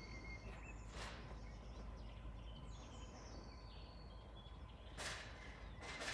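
Small birds chirping and singing: short high whistled notes, some level, some stepping down in pitch, repeated throughout. A few soft scuffs are heard about a second in and near the end.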